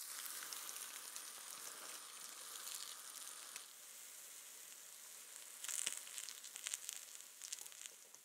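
Tofu and chickpea-flour batter frying in oil in a rectangular nonstick pan: a steady sizzle, with a busier patch of sharp crackles and clicks about six to eight seconds in, fading out at the end.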